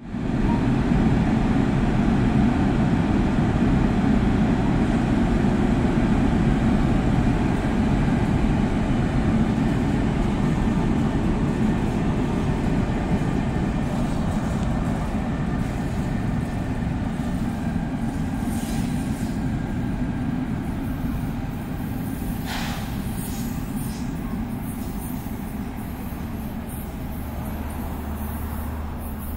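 A passenger train running past close by: a loud steady rumble of wheels and running gear that slowly dies away over the last third, with a couple of brief sharper sounds about two-thirds in.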